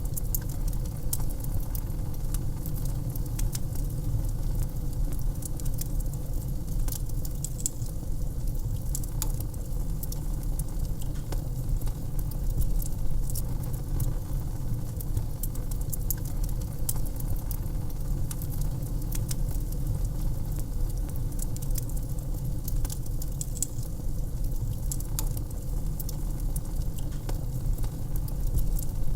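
Wood fire crackling in a fireplace: a steady low rumble of the flames with frequent small, irregular pops and snaps.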